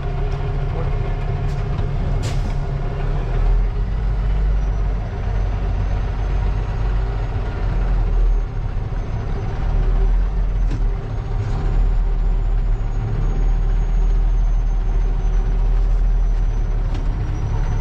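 Semi-truck's diesel engine running steadily at low revs, heard from inside the cab, with a few faint clicks.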